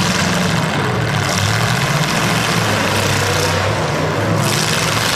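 Demolition derby car engines running steadily, with loud, constant engine noise.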